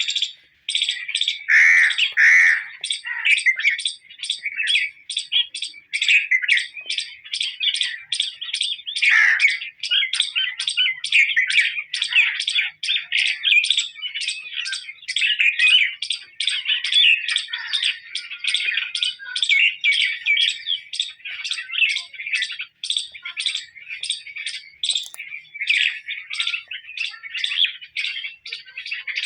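A bird chirping over and over in a steady series of short, high chirps, about two a second.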